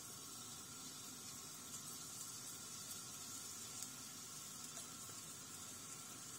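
Floured chicken breast slices frying in hot olive oil in a nonstick pan: a faint, steady sizzle with small crackles.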